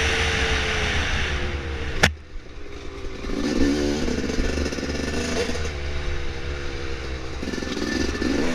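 Dirt bike engine running under way, with a single sharp knock about two seconds in, after which the engine briefly drops off before picking up again with revs rising and falling.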